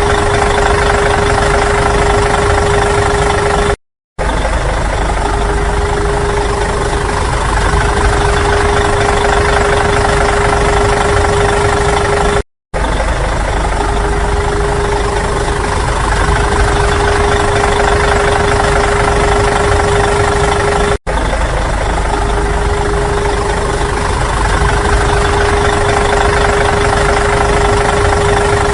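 A vehicle engine running steadily at idle, with a steady whine over the low rumble. The sound drops out abruptly three times, for a moment each.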